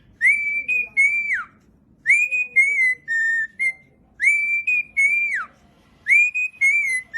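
A parrot whistling a short tune of held and sliding notes, repeating the same phrase about four times with brief pauses between.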